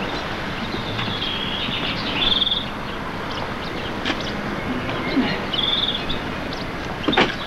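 A small songbird chirping in short trills, twice, over a steady hiss. A sharp knock near the end, from a spade working the soil.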